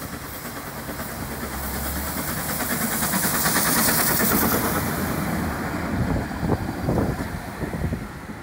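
A train passing by on the railway, running on the rails with a hissing rush that builds to its loudest about three to four seconds in, then fades, with a few knocks in the later seconds.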